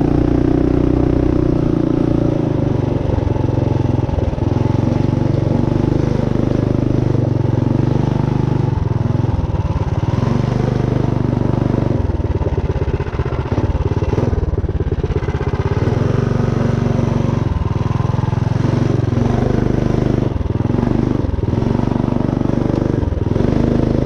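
Built Tillotson 212 single-cylinder four-stroke engine on a minibike running under way, its speed rising and falling, with scattered short knocks and rattles.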